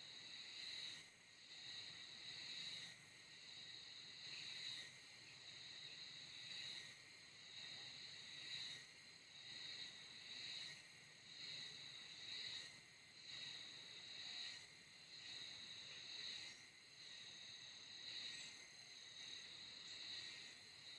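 Insects chirring in a layered chorus, high-pitched, swelling and fading about every two seconds.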